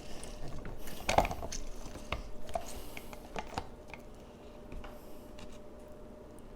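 A grapefruit being juiced: a run of small clicks, knocks and squishes that thins out after about four seconds, over a faint steady hum.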